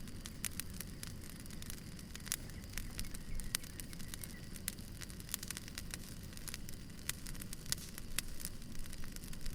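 Wood fire burning, with many irregular sharp crackles and pops over a low steady rumble.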